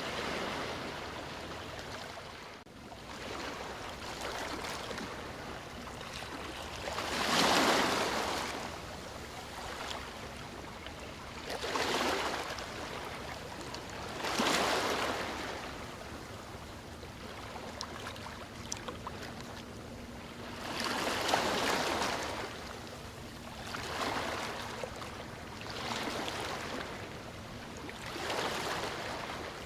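Sea waves breaking and washing on the shore, a steady wash of surf with swells about every few seconds, the biggest one about a quarter of the way in.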